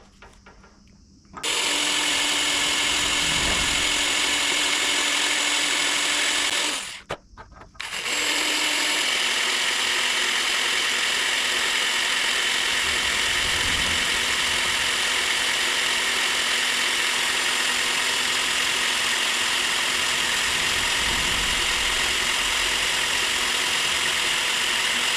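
Electric drill running steadily as a 2.5 mm pilot bit bores into a broken, flush-sheared M6 stud. It starts about a second and a half in, stops briefly around seven seconds, then runs on.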